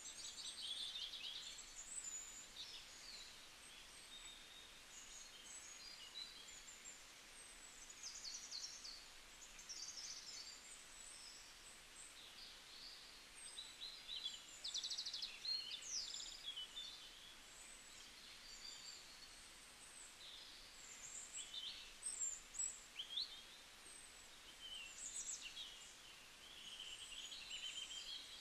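Several small birds chirping and twittering in short calls and quick trills, over a faint steady hiss.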